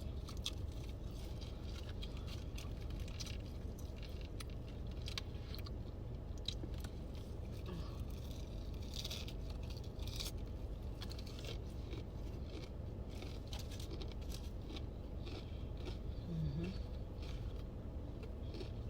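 Close-up chewing and crunching of fried chicken, with scattered wet mouth clicks and crackles, over a steady low hum.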